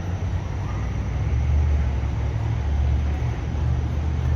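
Steady low rumble of vehicle engines with road traffic noise.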